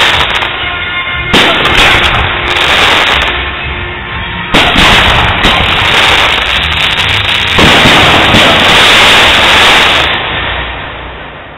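Fireworks display: loud bangs about a second in, near five seconds and near eight seconds, each followed by several seconds of dense noise from bursting shells, dying away near the end.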